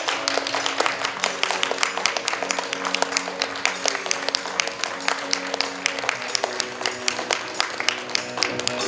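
Audience applauding with dense, irregular clapping over music with held tones.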